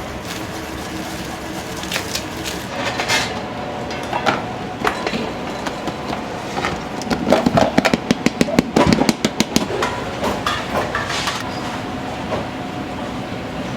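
Busy restaurant kitchen: a steady hum with scattered clatter, and a fast run of sharp knocks for a few seconds in the middle.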